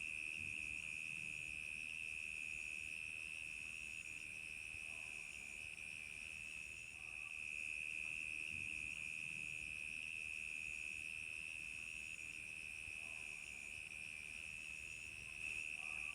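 Crickets chirping in a dense, steady high trill, with a higher, fainter chirp repeating in an even rhythm over it.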